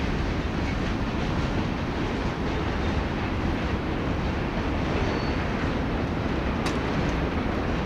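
Train passing through a railroad grade crossing: a steady rumble of wheels on rail, with a sharp click just under seven seconds in.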